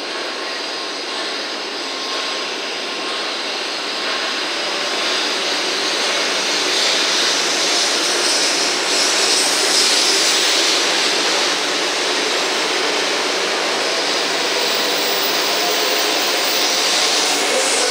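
A 500 series Shinkansen train pulling out of the platform: a steady rushing, jet-like noise of its running gear and motors that slowly grows louder as it gathers speed.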